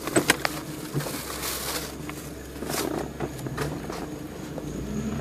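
Car engine running steadily, heard from inside the cabin, with a few sharp clicks in the first half second.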